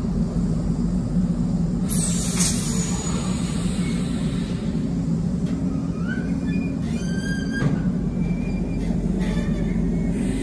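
Container freight train's loaded flat wagons rolling past at close range with a steady heavy rumble. Short high wheel squeals and screeches ring out a few times over it, one about two seconds in and more in the second half.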